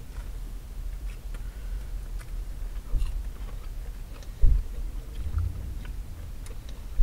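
A person chewing a mouthful of fried chicken and waffle, with small scattered clicks from the mouth, over a steady low rumble in a car cabin. A dull thump comes about four and a half seconds in.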